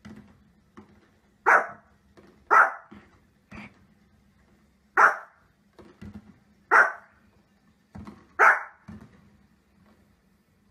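Pomeranian barking at fireworks on the television: sharp, high single barks, about six of them, a second or two apart, with faint low thuds between them.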